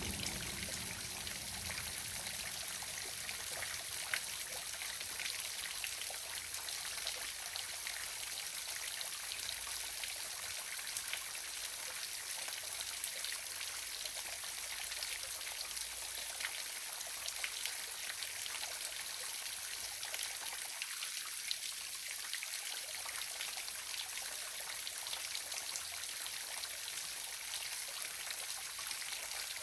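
Small waterfall running steadily: an even rush of falling water with fine splashing and trickling over it.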